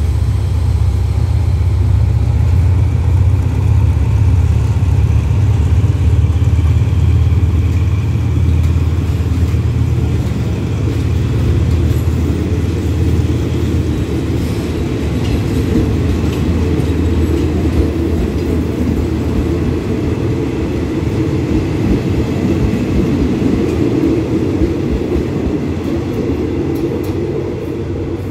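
A train's passenger coaches rolling slowly past, a steady rumble of wheels on the rails. A deep drone from the GEA diesel-electric locomotive at its head fades over the first ten seconds or so as the engine draws away.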